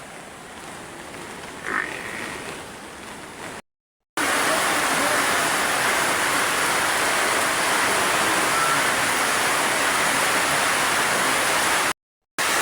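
A steady, quiet hiss with one brief high call about two seconds in. Then, after a short cut to silence, a much louder steady rush of water.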